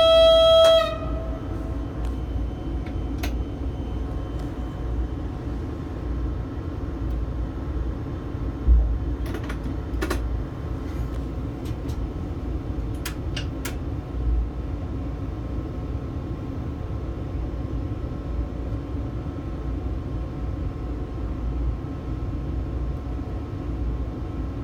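Train horn, the weaker small horn because the larger one is frozen solid with snow and ice, sounding one steady tone that cuts off under a second in. After that, the electric train's steady low cab hum and rumble, with a few faint clicks.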